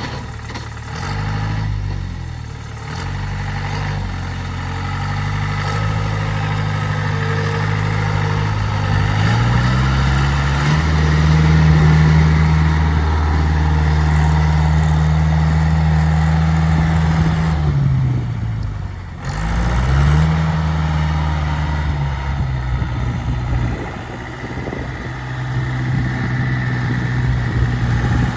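Off-road vehicle's engine revving under load: the pitch climbs about a third of the way in and holds high for several seconds, drops off abruptly about two-thirds through, then climbs again and settles to a lower steady run near the end.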